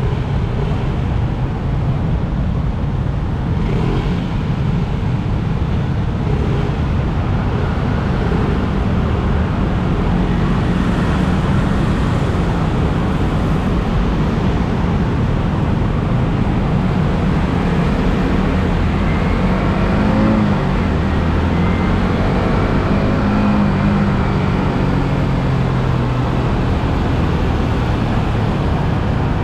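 Yamaha R15M's single-cylinder engine on its stock exhaust, heard while riding, under heavy wind rush on the camera microphone. The engine's pitch rises and falls with the throttle and shows through more clearly in the second half.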